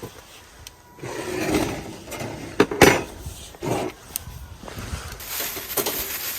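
Objects being handled: rubbing and rustling with a few sharp knocks, the loudest two close together about two and a half seconds in.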